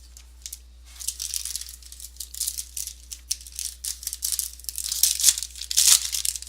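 Trading-card pack wrapper crinkling and rustling as it is handled: a quick run of dry crackles that starts about a second in and grows louder toward the end.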